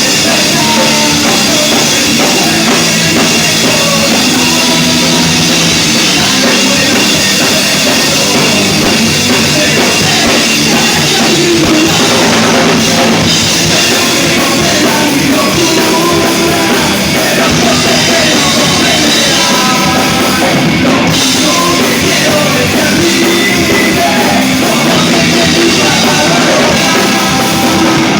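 Rock band playing live, loud and dense, with a drum kit.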